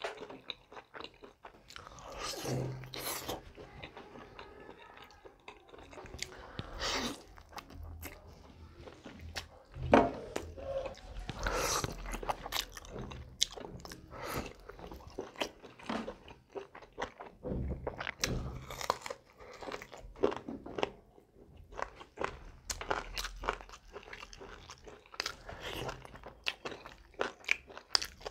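A person biting into and chewing a Korean-style sauced fried chicken drumstick close to a clip-on microphone, with irregular crunches and chewing sounds.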